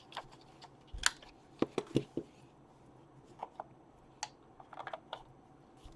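Hands handling paper and craft pieces on a table: scattered light taps and clicks, a cluster of them about a second in and another group near the end.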